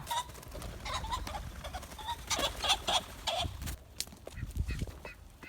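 Penned ring-necked pheasants making short, scattered calls among many brief clicks and rustles as they are herded.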